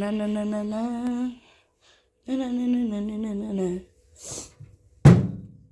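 A person humming two long, wavering notes, the second after a short pause. Near the end comes a brief hiss and then a sudden loud burst, the loudest sound, that quickly fades.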